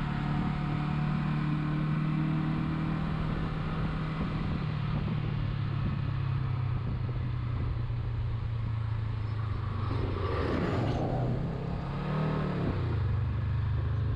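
Honda CB500X's parallel-twin engine running at steady road speed, its note stepping down a couple of times as the bike slows.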